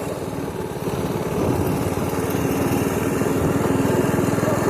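Pit bike's small engine running on the move, easing slightly at first and picking up again about a second and a half in.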